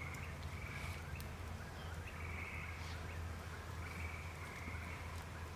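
Eastern whip-poor-will calling: short trilled phrases at one high pitch, each about half a second long, repeated every second or two. A low steady hum runs underneath.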